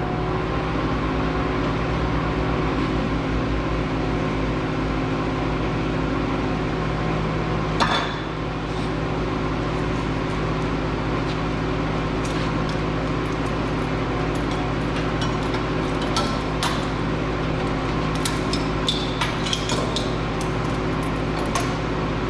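Scrap metal pieces clinking and knocking as they are handled, with one sharper knock about 8 seconds in and a run of light clinks in the second half, over a steady machine hum.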